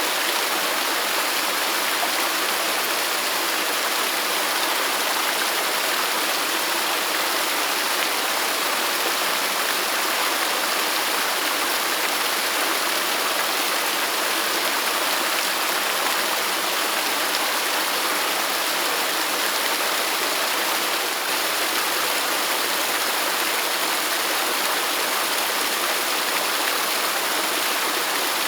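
Waterfall: a steady, unbroken rush of falling water, a bright hiss that does not change.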